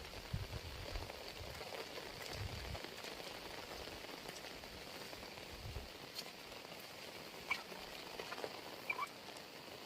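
Steady heavy rain falling, with individual drops ticking sharply close by. There are a few low thuds in the first few seconds.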